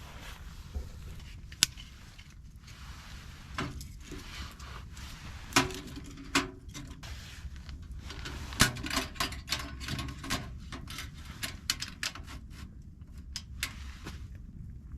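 Sharp knocks, clicks and scrapes of wood and metal being handled while a small wood-burning tent stove is loaded and lit. There are a few louder strikes, some with a brief metallic ring, and a busy run of small clicks and scrapes in the second half.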